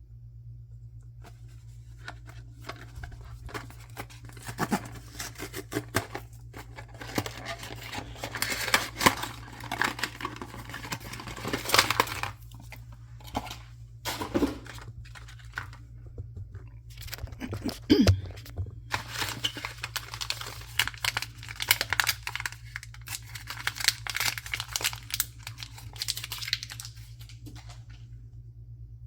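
Packaging being torn open and crinkled by hand, in irregular crackly stretches with a few short pauses, over a steady low background hum.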